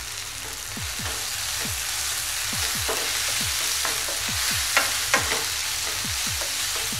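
Onion-tomato masala sizzling in oil in a nonstick frying pan while a wooden spatula stirs and scrapes it, with two sharper knocks of the spatula a little after halfway.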